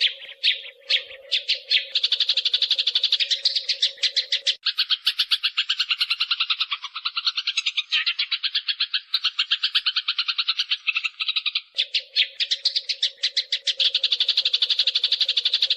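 Eurasian tree sparrows fighting: a dense, rapid chatter of sharp chirps at about ten a second, starting abruptly and running on without a break.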